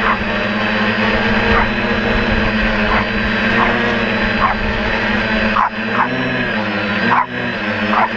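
Small dog barking in short, sharp yips about every second, over the steady hum of a DJI F450 quadcopter's motors, whose pitch wavers near the end.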